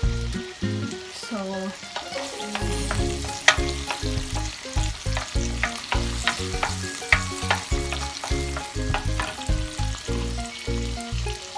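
Sliced onions sizzling and frying in a square pan, with a wooden spoon scraping and knocking against the pan as they are stirred. Background music with a steady beat plays underneath.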